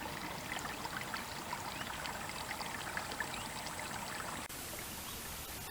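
River water trickling and lapping at the bank: a steady, faint babble dotted with small ticks.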